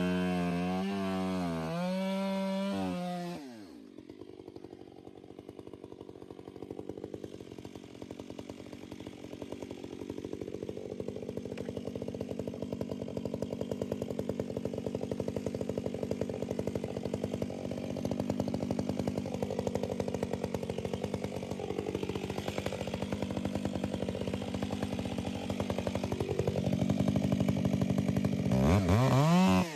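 Chainsaw running at high revs with its pitch wavering as it cuts. About three and a half seconds in it drops to a low, pulsing idle that grows gradually louder. Near the end it is throttled up to high revs again.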